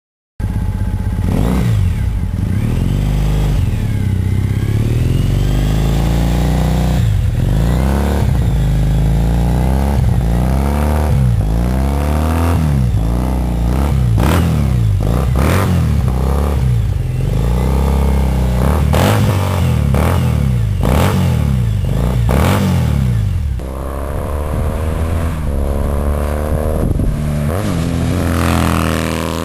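2009 Triumph Bonneville SE's air-cooled parallel-twin engine revved repeatedly through Staintune aftermarket mufflers, the pitch rising and falling with each blip of the throttle. The sound changes abruptly about three-quarters of the way through to a somewhat quieter stretch of revving.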